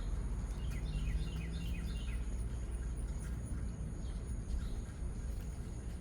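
A bird calls a quick run of about six short, downward-sliding chirps about a second in, over a steady low outdoor rumble.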